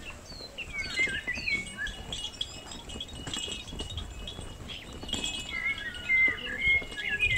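Many small birds chirping and whistling, short calls sliding up and down in pitch and overlapping, over a steady high ringing tone. A couple of louder knocks come near the end.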